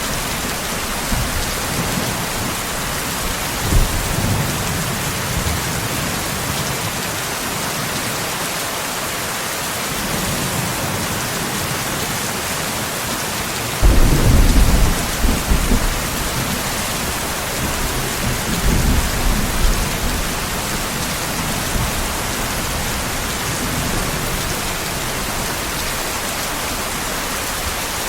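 Steady rain hissing, with rolls of thunder rumbling low beneath it: a short one a few seconds in, the loudest about halfway through, and another soon after.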